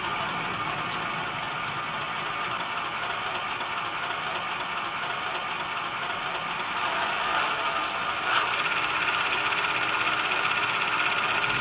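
HO-scale model locomotive's DCC sound decoder playing a steady engine sound through its small onboard speaker as the freight train runs. The sound gets somewhat louder about seven seconds in, with a brief click a little later.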